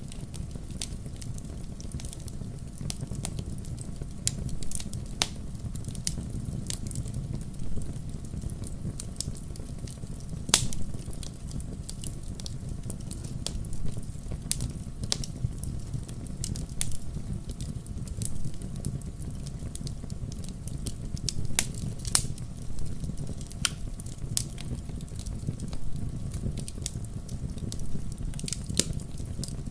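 Wood fire burning in a fireplace: a steady low rumble of flames with frequent sharp crackles and pops at irregular intervals, a few louder pops among them.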